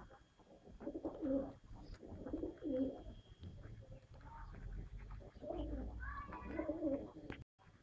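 Domestic pigeons cooing: low, warbling coos in a few bouts, the longest near the end.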